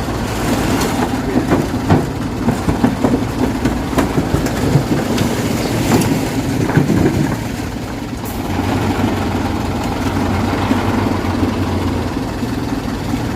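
Dump truck's diesel engine running, with rattles and knocks over it through the first half. From about eight seconds in it settles into a steadier low running.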